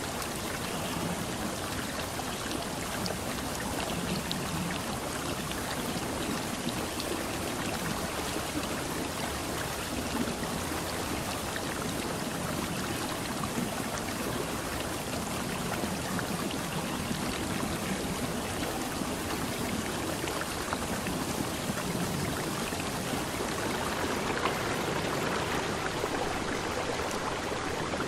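Steady water noise, an even hiss and patter with faint scattered ticks that holds without a break.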